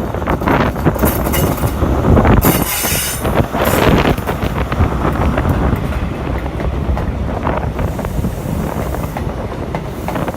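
A train running past on the rails, its wheels clicking and rumbling over the track, with a brief high wheel squeal about two and a half seconds in.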